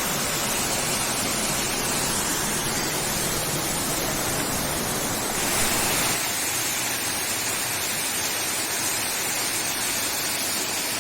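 Waterfall rushing in a steady, even roar of falling water. About six seconds in the deepest part of the sound falls away, leaving a lighter hiss.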